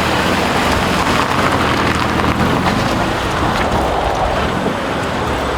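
A car engine running steadily, with a constant rushing noise over it.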